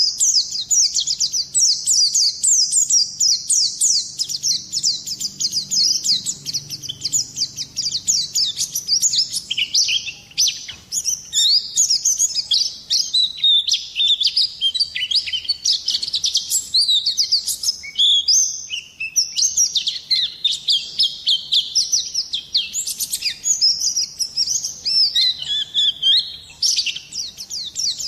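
White-eye (pleci) singing a long, fast, high-pitched twittering song of rapid chirps, without a break.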